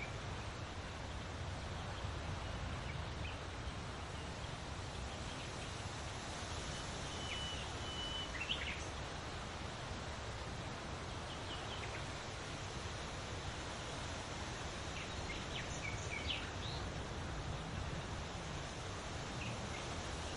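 Steady outdoor background noise with a few scattered short bird chirps, clustered about eight seconds in and again around sixteen seconds in.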